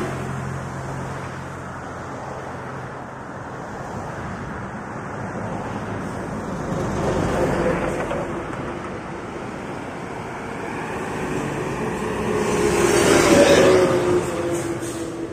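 Road traffic over a steady rushing noise: motor vehicles pass, one around the middle and a louder one near the end whose engine tone falls slightly as it goes by.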